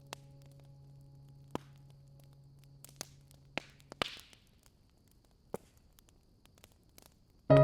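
Wood fire crackling: sparse sharp pops, about six, one around four seconds in followed by a brief hiss. A faint low held tone fades out around the same time, and piano music comes in loudly right at the end.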